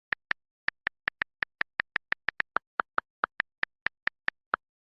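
A quick run of about two dozen short, sharp clicks, roughly five a second and slightly uneven, each one the same crisp tick.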